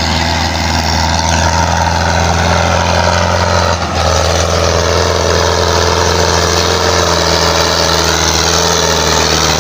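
Tractor engine running steadily at a low, even speed, with a brief dip in level about four seconds in.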